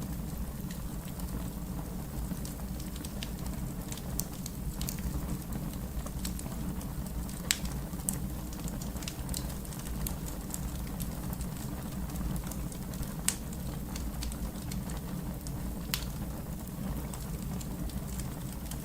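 Fire crackling: a steady low rumble of burning with scattered sharp pops, two louder snaps about seven and a half and thirteen seconds in.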